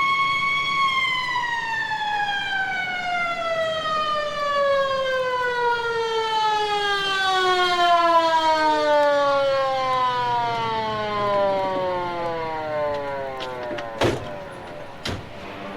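Siren winding down: a held tone that then falls slowly and steadily in pitch over about thirteen seconds. Two sharp clicks come near the end, a second apart.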